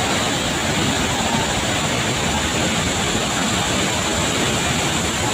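Steady roar of a large waterfall, Tegenungan Waterfall, with water pouring and crashing into the plunge pool.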